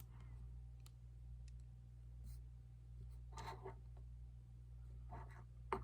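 Quiet small-room tone with a steady low hum, broken by a few faint, brief sounds in the second half and a short sharp click near the end.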